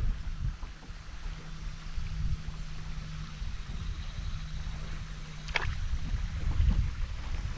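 River water lapping and gurgling around a canoe, over a low rumble. About five and a half seconds in there is a single sharp knock.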